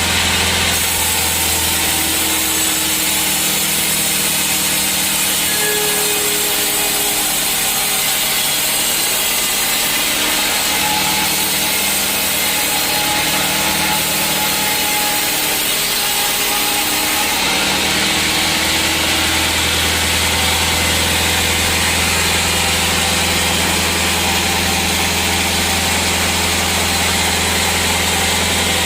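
Sawmill saw cutting through hard teak wood, a dense high hiss over the steady hum of the machine's motor; the hum grows louder about two-thirds of the way through.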